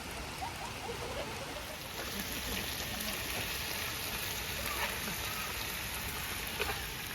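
Heavy rain falling steadily, a little louder from about two seconds in.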